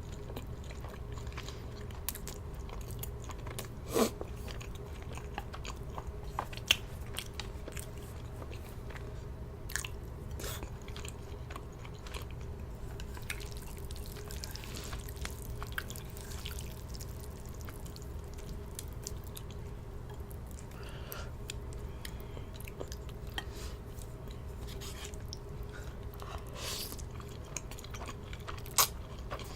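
A person chewing Samyang instant ramen noodles close to the microphone, with many small mouth and utensil clicks and three louder sharp clicks, over a steady low hum.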